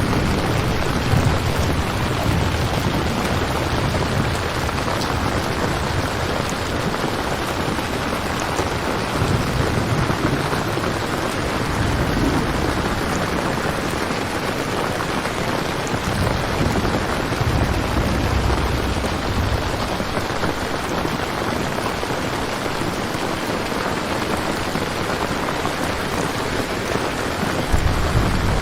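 Steady heavy rain with low thunder rumbling in and out.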